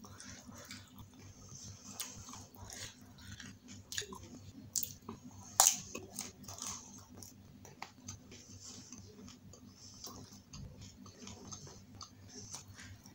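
Close-up chewing of a pani puri, a crisp hollow puri dipped in spiced green water, with wet crunching and mouth clicks. A loud sharp crunch comes about five and a half seconds in; the chewing gets softer in the second half.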